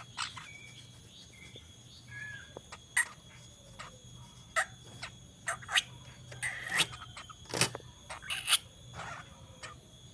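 Juvenile long-tailed shrike (cendet) practising its chattering 'ngeriwik' song: irregular short, sharp chirps and clicks, with a few soft whistled notes at the start and louder calls later.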